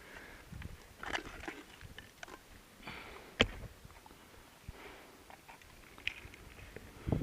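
Rustling and crunching of someone picking through old dump debris on foot, with scattered small clicks, one sharp click about three and a half seconds in and a low thump near the end.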